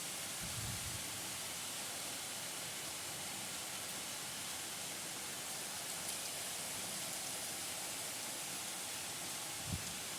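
Steady hiss of rainfall, with a couple of brief low thumps, one about half a second in and one near the end.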